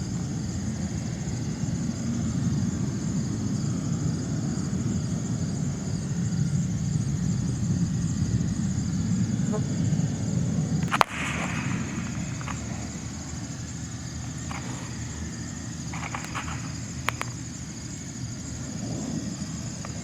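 Crickets or other insects chirring steadily over a low rumble that eases off about halfway through. A single sharp knock comes about eleven seconds in, followed by a few faint clicks.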